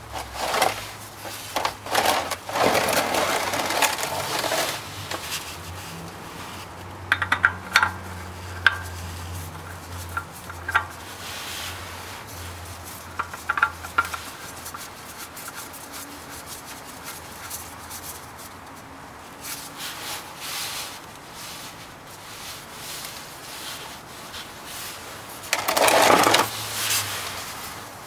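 Hands working on the underside of a car during an oil change: rubbing and handling noise with scattered light metallic clicks and clinks, a few close together about seven seconds in and a louder rub near the end.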